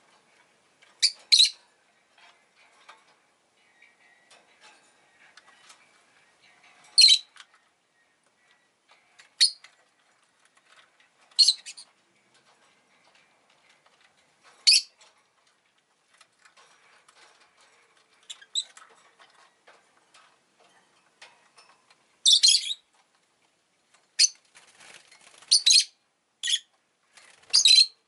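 Rosy-faced lovebird giving short, high-pitched chirps every few seconds, coming in a quicker run near the end.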